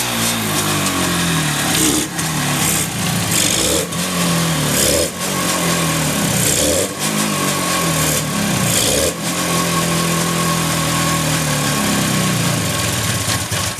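Yamaha RX350's two-stroke parallel-twin engine running and being blipped: the revs rise and fall several times, hold steady for a few seconds, then drop away at the very end. The seller describes the engine as free of abnormal noises.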